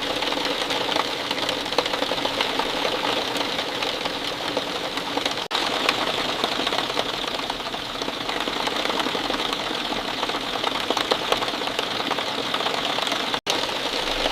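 Steady rain falling, a dense patter of many small drops hitting a surface. The sound drops out for an instant about five and a half seconds in and again near the end.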